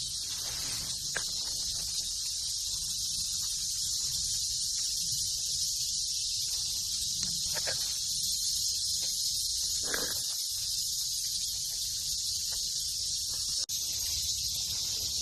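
Steady high-pitched drone of an insect chorus in woodland, with a few brief rustles and small knocks near the microphone.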